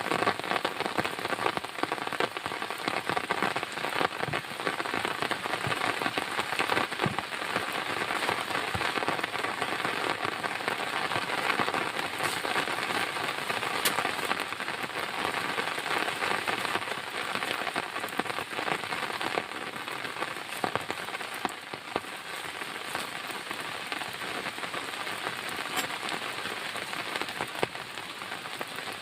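Heavy rain falling steadily, with many close individual drops striking a surface, a little softer toward the end.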